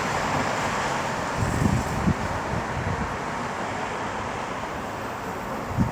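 CrossCountry Class 220 Voyager diesel multiple unit passing through the station, a steady rushing noise that slowly fades as it goes by, with a few low gusts of wind buffeting the microphone.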